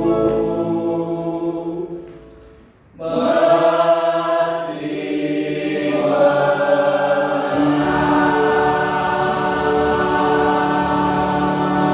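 A choir singing a held chord that dies away about two seconds in, then coming back in about three seconds in with sustained, blended chords.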